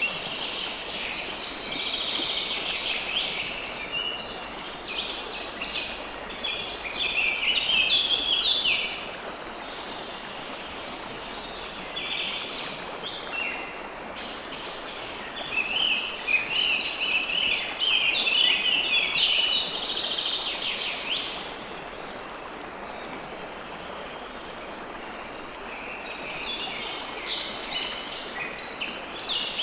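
River water flowing steadily, with songbirds singing over it in three bouts of rapid high chirps separated by short pauses.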